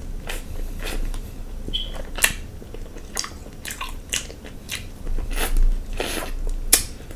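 Close-miked eating sounds of a person chewing king crab meat dipped in butter sauce: wet chewing with a dozen or so sharp lip smacks and clicks, the loudest near the end.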